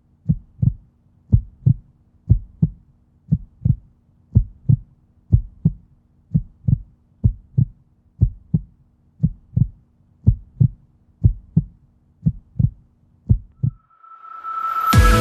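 Heartbeat sound effect: paired low thumps in a lub-dub rhythm, about one beat a second. Near the end a rising swell builds and music comes in.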